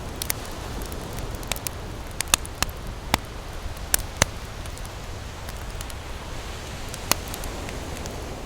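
Wood campfire crackling, with sharp irregular pops that come thick in the first half and then thin out, one more near the end. Under it runs a steady low wash of ocean surf.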